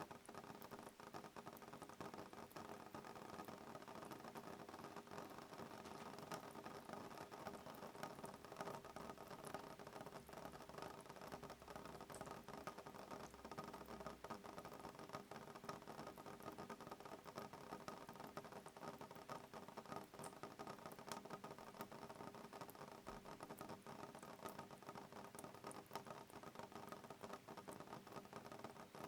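Soft rain pattering on a window pane: a faint, steady spray of many small drop ticks.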